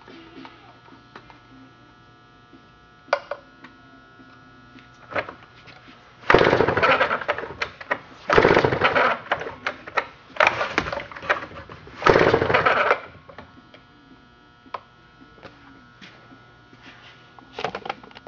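Stihl 090 chainsaw engine cranked by four pulls of the recoil starter rope for a compression test, each pull a loud, fast pulsing rasp lasting about a second, with a few light clicks before and after. The gauge then reads just under 175 psi: good strong compression.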